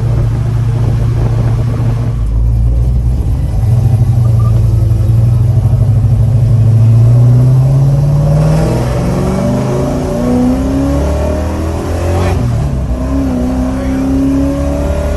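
Oldsmobile Cutlass engine running, then accelerating: its note climbs steadily for several seconds, drops, and climbs again a few times.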